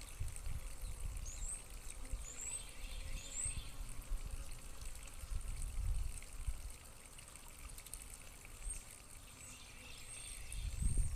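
Low wind or handling rumble, with a small bird giving short, high chirps, three in a row early on and a few more near the end.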